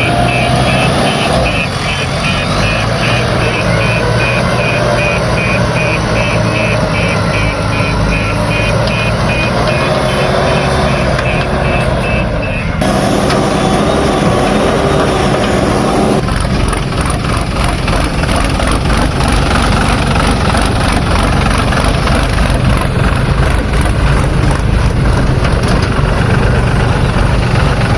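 Diesel engines of a backhoe loader and a tractor running steadily. For about the first half, a regular high beeping sounds over them and then stops abruptly.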